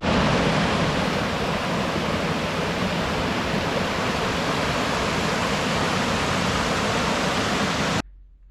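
Waterfall rushing: a steady, even noise of falling water that cuts off abruptly near the end.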